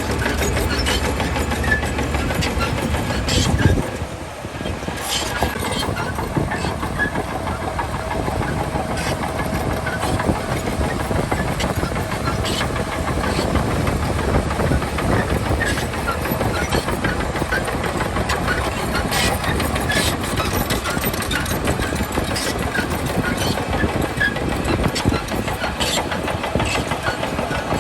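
Diesel engine of a Shantui DH17C2 crawler bulldozer running under load, with frequent metallic clanks and knocks from its steel tracks and blade. The sound peaks briefly about four seconds in, drops for a moment, then carries on steadily.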